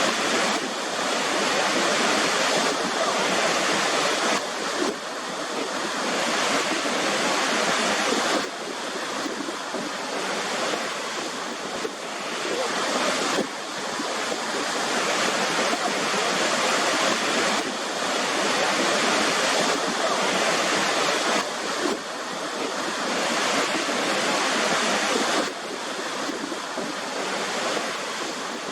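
Waterfall rushing: a steady, dense hiss of falling water, with sudden small shifts in level every few seconds.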